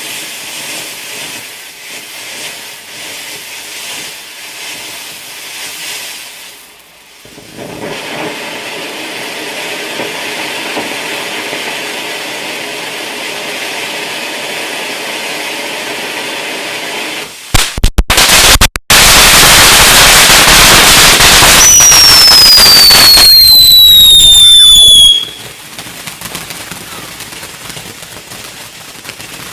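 A lit garden firework hissing steadily for about seventeen seconds, then a few sharp bangs, followed by a very loud rushing burst with several whistles falling in pitch, which stops about twenty-five seconds in and leaves a faint crackle.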